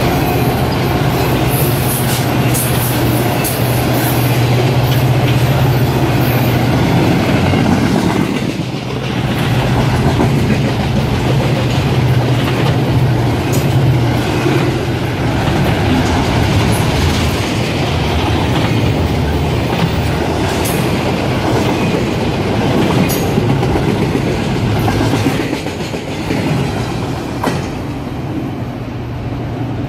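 Intermodal freight train's cars rolling past close by: a continuous clickety-clack of wheels over the rail joints with a heavy low rumble. It fades near the end as the last cars move away.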